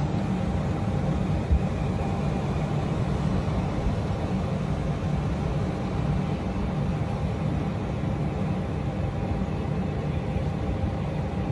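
A steady low rumble of a running engine, with no change in pitch or level.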